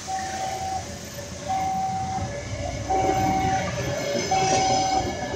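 Passenger train passing through a level crossing, its wheels rumbling and clattering on the rails. Over it the crossing's warning alarm sounds a steady repeating tone, about one beep every second and a half.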